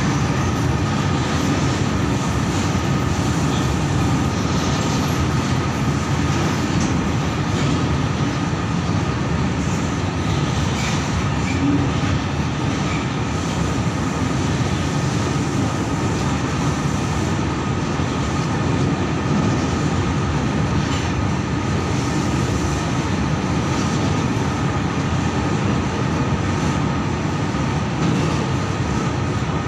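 A freight train of steel covered and open wagons rolling past: a steady rumble of wheels on rail that does not let up, with a thin, steady high note running above it.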